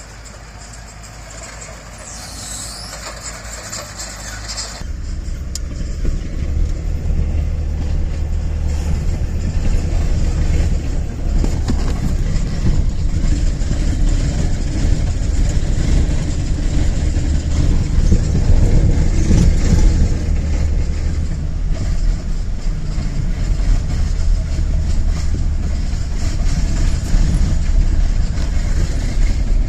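Motor vehicle engine rumble, building louder over the first five seconds and then holding steady. A brief high squeal comes about two seconds in.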